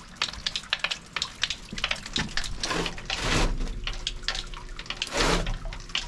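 Freshly lit wood fire crackling and popping in the firebox of a Central Boiler outdoor wood furnace, with two louder rushing swells about three and five seconds in.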